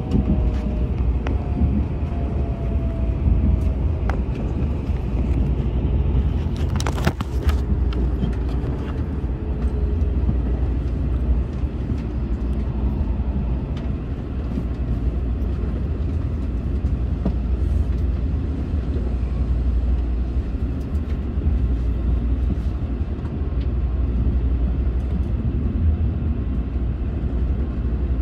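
Shinkansen bullet train running, heard from inside the passenger car: a steady low rumble with a faint whine falling slowly in pitch over the first several seconds. There is a single sharp knock about seven seconds in.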